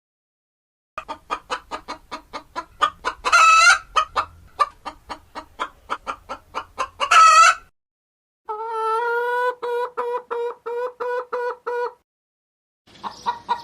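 Chicken clucking in quick short notes, about three a second, broken by two louder drawn-out squawks. After a short pause comes a second run of evenly spaced clucks on a steady pitch.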